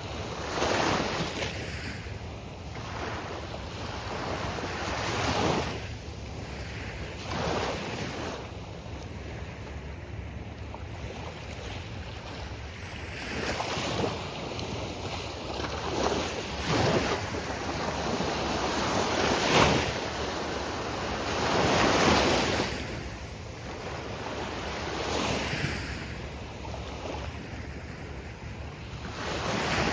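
Gulf of Mexico surf breaking on the beach: a wash of noise that swells and falls as each wave breaks, every two to three seconds, over a steady low wind rumble on the microphone.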